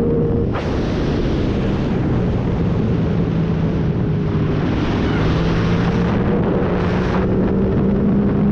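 Yamaha MT-07's 689 cc parallel-twin engine running on a ride through a full MIVV exhaust with no catalytic converter and no dB killer, its note holding fairly steady. A loud rushing noise joins it about half a second in and drops away about seven seconds in.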